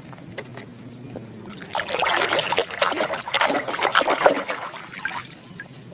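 Water splashing and dribbling as a muddy plastic animal toy is scrubbed clean by hand in a tub of water. Quiet at first, busiest for about three seconds in the middle, then fading.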